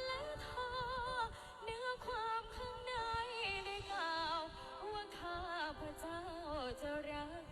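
A woman singing a slow, ornamented melody, holding long notes with heavy vibrato and sliding between pitches.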